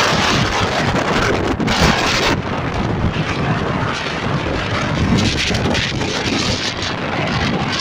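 Strong wind buffeting the microphone, a loud, dense rumble; the gust eases slightly about two seconds in.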